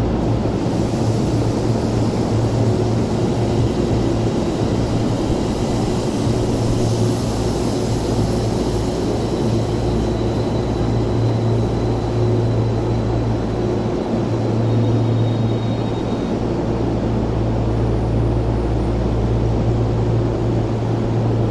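Tokyo Metro 16000 series electric train creeping along the platform and coming to a stop, with a steady low hum from the train.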